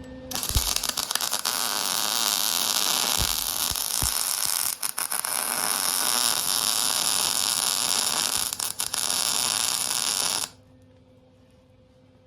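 Electric arc welding of a leaf-spring steel plate onto the steel anvil: a steady hissing noise that starts just after the beginning, breaks off briefly twice, and stops suddenly about two seconds before the end.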